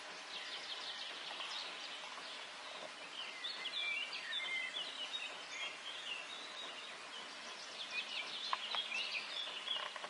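Faint outdoor background: a steady hiss with small birds chirping many short, high calls, and a few light clicks near the end.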